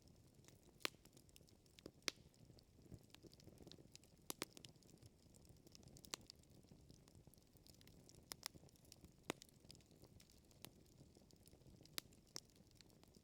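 Wood fire crackling: irregular sharp pops of burning logs every second or two over a soft, low rumble of the flames.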